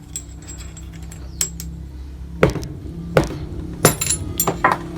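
Metal clinking and knocking as a steering rack housing is tapped down on a wooden block with an Allen key set in the steel spacer's hole, to knock the spacer out. A few small clicks come first, then about five sharper knocks from about halfway on.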